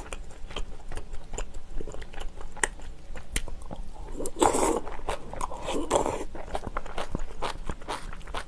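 Close-miked crunching and chewing of crisp napa-cabbage kimchi: many small, sharp crunches. Two louder, longer slurps come near the middle as she takes a spoonful of stew.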